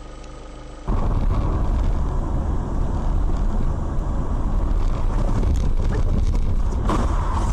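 Vehicle in motion with a loud, dense low rumble of road and wind noise on the recording microphone. It starts abruptly about a second in, after a quieter steady hum.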